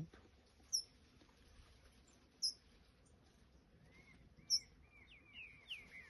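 Wild songbirds calling: three sharp, high chips about two seconds apart, and a quieter run of short whistled notes in the last two seconds.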